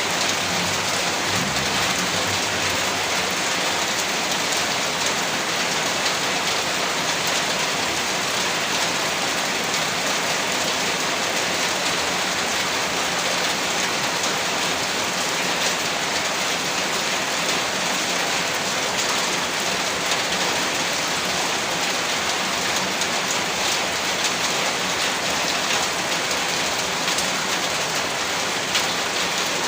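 Heavy rain falling steadily, a dense even hiss of drops. There is a faint low rumble about a second in.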